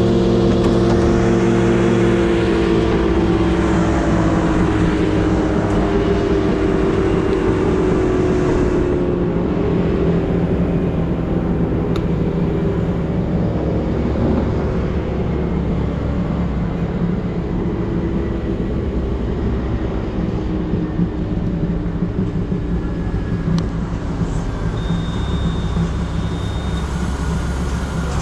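An engine running steadily and loud, its pitch falling over the first several seconds and then holding. A short high steady tone sounds near the end.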